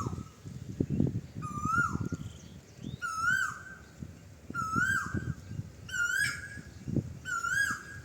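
A bird repeating a short call about every second and a half, six times, each call rising and then dropping sharply, over low rustling and knocking.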